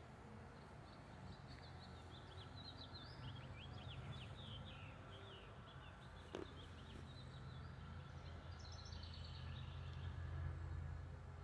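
Faint outdoor ambience: a songbird singing quick runs of chirping notes, twice, over a steady low rumble, with a single click about six seconds in.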